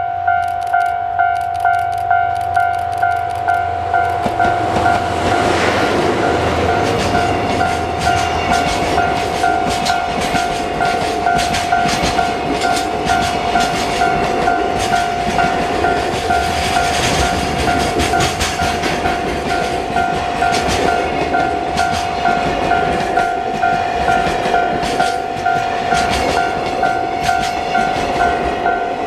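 JR Freight DF200 diesel-electric locomotive hauling a long container freight train past at speed. The engine comes by about four to six seconds in, then the container wagons clatter over the rail joints with rapid clicks. A level-crossing warning bell dings steadily about twice a second throughout.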